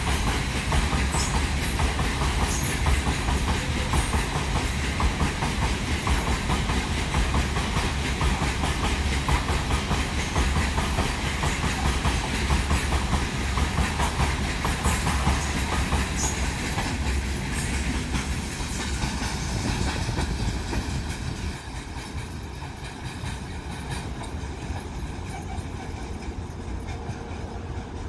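A long freight train of open-top wagons rolling past, a steady wheel-on-rail running noise that drops off about three quarters of the way through.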